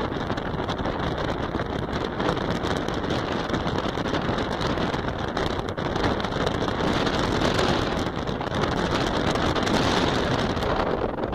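Wind buffeting the microphone: a steady, loud rushing noise that swells a little near the end.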